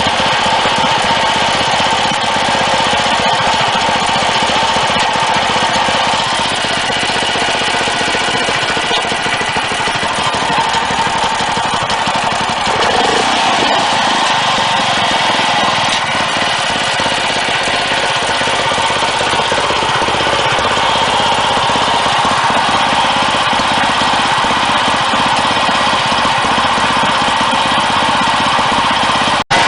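Hopestar SU engine running steadily at idle through a Supertrap silencer on the exhaust, the silencer keeping it quiet and the idle stable. The sound drops out for an instant near the end.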